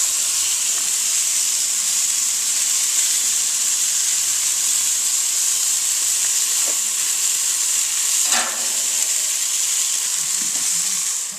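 Food sizzling on a barbecue grill: a steady hiss, with one brief louder crackle about eight seconds in.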